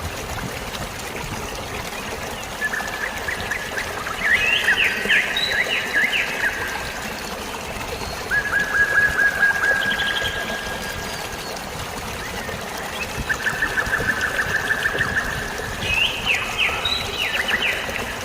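Birds singing in about five separate bursts of rapid trills and quick falling notes, over a steady rush of running water.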